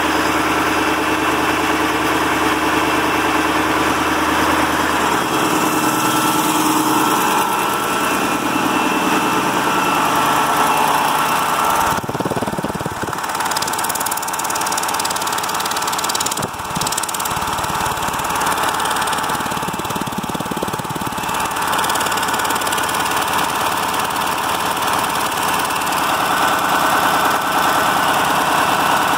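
Freshly overhauled KAMAZ Euro-5 truck diesel engine running steadily, mostly at idle after its first start-up following the rebuild. The sound shifts briefly twice around the middle.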